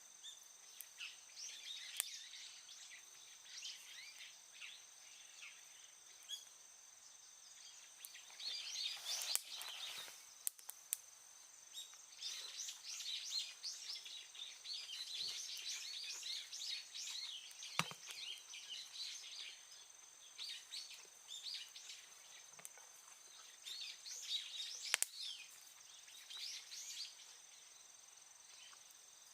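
Birds chirping in scattered bursts over a steady high, thin insect-like tone, with a few sharp clicks.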